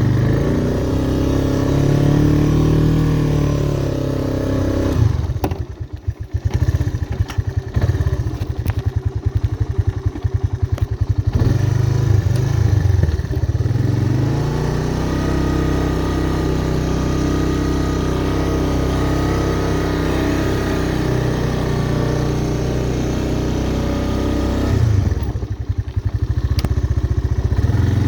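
1985 Honda ATC Big Red 250ES three-wheeler's single-cylinder four-stroke engine working at steady revs, dropping to a slow idle about five seconds in, revving back up, and dipping briefly again near the end before picking up once more.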